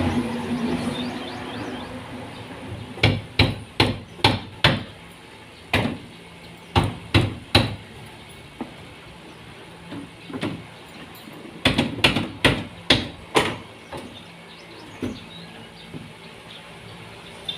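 Hammering during carpentry: sharp hammer blows in quick bursts of three to six strikes, with pauses and single taps between the bursts.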